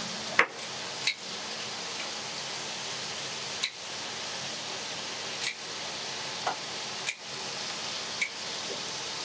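Steady sizzling hiss of food frying, with a sharp click or knock of utensils every second or two.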